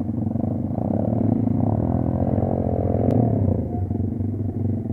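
Kayo dirt bike engine running, revs rising and falling back about midway.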